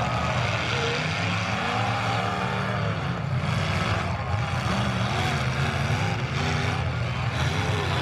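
Demolition derby car engines running together, their pitch wavering as they rev up and down.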